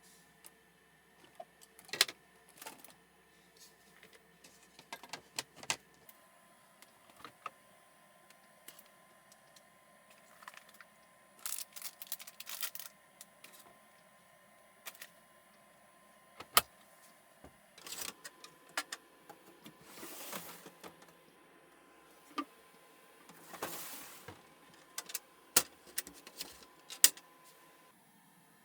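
Small objects being handled at close range: scattered sharp clicks and knocks with a few short rustles, over a faint steady hum.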